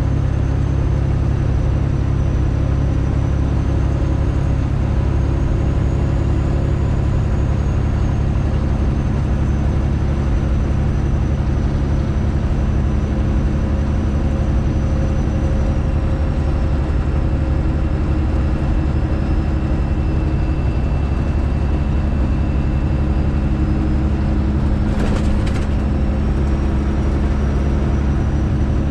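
Straight-piped Detroit Diesel engine of a Freightliner Classic XL truck running loud and steady at an even speed. A couple of brief clicks come near the end.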